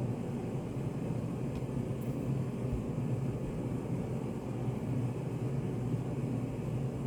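Steady low rushing hum of a study café's room tone, the constant background that makes its white noise. Two faint light ticks come about one and a half and two seconds in.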